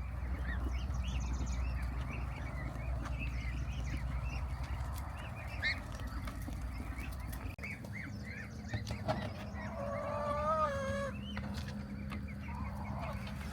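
Chickens calling: a run of short chirps, then a longer, wavering call about ten seconds in.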